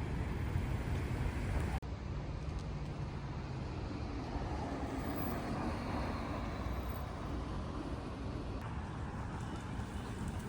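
Steady road traffic noise with a low rumble. It breaks off abruptly for an instant about two seconds in, and the character shifts slightly near the end.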